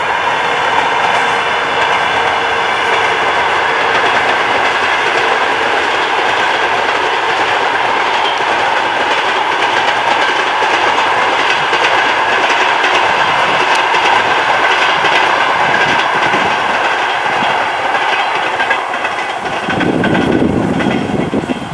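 Passenger train coaches rolling past at speed, a loud steady rush of wheels on rail with the clickety-clack of wheels over rail joints; near the end a short low rumble, then the sound falls away as the train passes.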